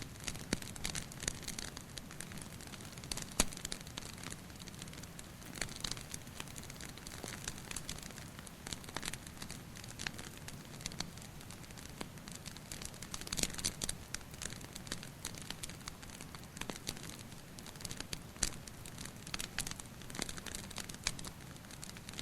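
Wood fire crackling, with frequent irregular sharp pops and snaps over a steady low hiss.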